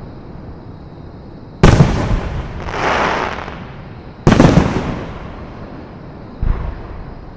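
Fireworks shells bursting overhead. A sharp bang comes about one and a half seconds in and another a little after four seconds, each followed by a rumble that dies away. A spell of hiss falls between them, and a fainter thump comes near the end.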